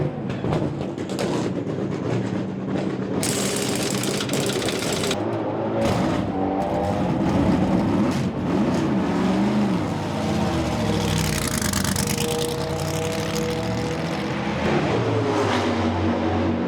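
Chevrolet Corvette C5-R race car's 7-litre V8 running hard, its pitch rising and falling with the revs and holding a steady note for a few seconds past the middle. A burst of rushing noise comes a few seconds in.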